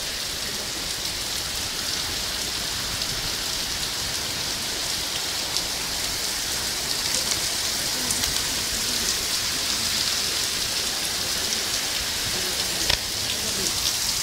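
Rain falling steadily in a storm, a continuous hiss with individual drops ticking close by. A single sharp knock about thirteen seconds in.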